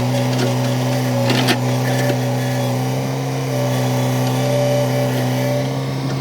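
Komatsu excavator's diesel engine running at a steady speed, with a brief clatter of knocks about a second and a half in.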